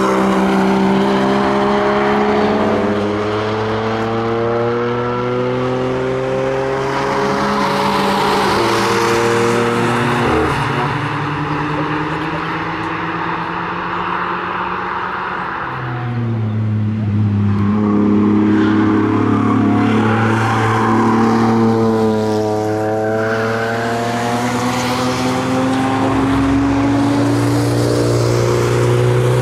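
Small hatchback cars' engines driven hard as they pass through bends, the engine note rising and falling with throttle and gear changes, one car after another.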